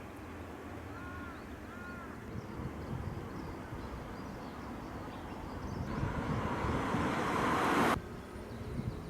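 A crow caws twice, about a second apart, over a steady low outdoor rumble. Near the end a rushing noise swells louder for about two seconds and cuts off suddenly.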